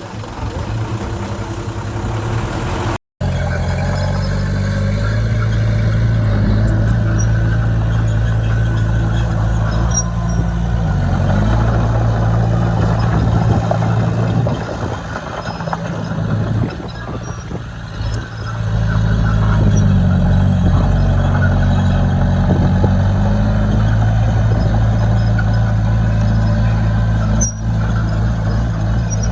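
Bulldozer's diesel engine running steadily with a deep, even note that sags and recovers a few times. Just before that, the sound cuts out for a moment.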